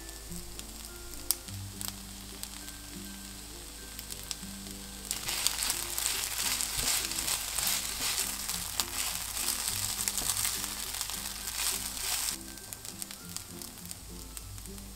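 Fried rice with diced bell pepper and onion sizzling in an oiled frying pan as it is stirred, with scattered clicks. The sizzle grows much louder about five seconds in and drops back about seven seconds later. Background music plays underneath.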